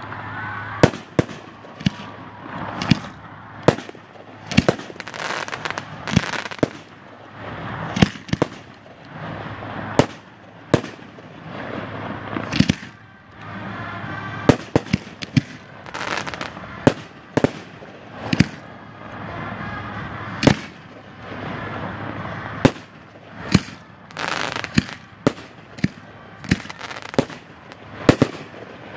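Aerial fireworks going off: a steady string of sharp bangs from shells bursting, about one to two a second, with noise running between them.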